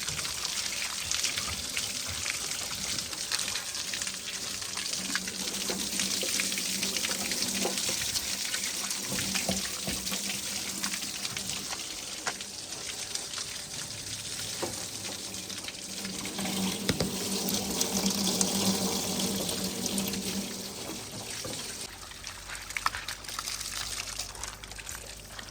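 Water running and splashing steadily, with a steady low hum underneath that fades out about 21 seconds in.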